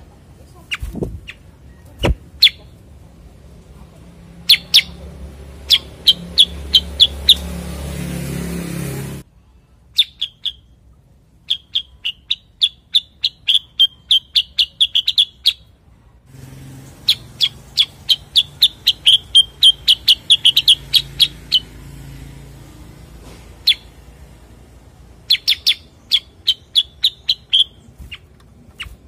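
Common iora (cucak kurincang) calling in bouts of quick, sharp, high chip notes, several a second, each run lasting a few seconds with pauses between. A low rumble runs under some of the bouts, and there are a couple of sharp clicks near the start.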